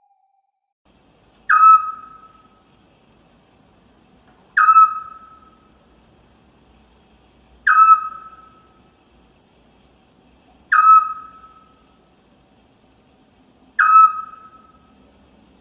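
An owl repeating a short, single whistled hoot, five times at a steady pace of about one every three seconds, each note starting sharply and fading quickly.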